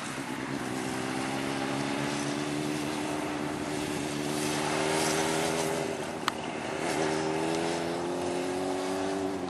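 Motorcycle engine pulling along in gear, its pitch climbing slowly. About six seconds in the pitch dips briefly, then climbs again. A single sharp click comes just after the dip.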